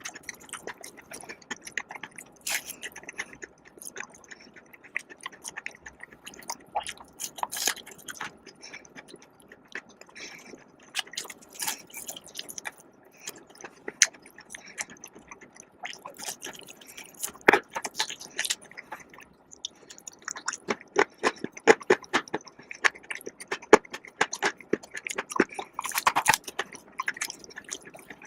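Close-miked eating: bites and chewing of crispy fried food, with irregular sharp crunches and wet mouth clicks. The crunching gets louder and busier in the second half.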